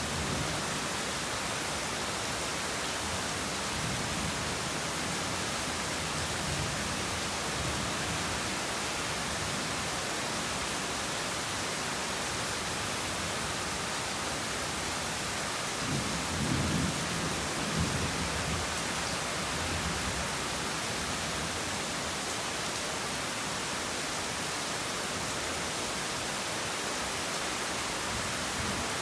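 Heavy rain falling steadily, with low rolls of thunder rumbling through it, the strongest about halfway through.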